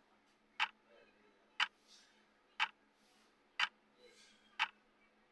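Countdown timer's clock-tick sound effect: sharp ticks, one each second, five in all.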